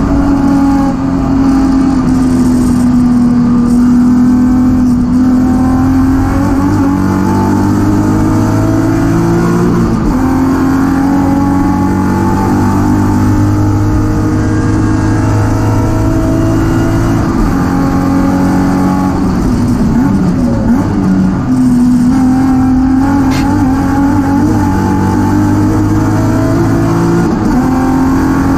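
BMW E36 M3's S52 straight-six engine driven hard on track, the engine note climbing and falling with several gear changes, heard from inside the stripped, roll-caged cabin.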